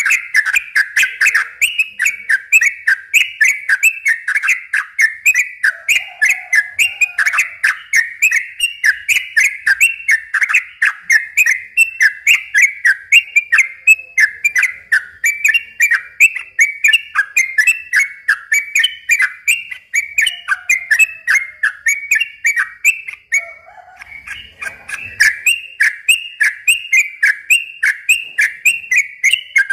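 Yellow-vented bulbul (trucukan) singing a long, unbroken run of quick, bright whistled notes, about three to four a second, with a brief pause about three-quarters of the way through.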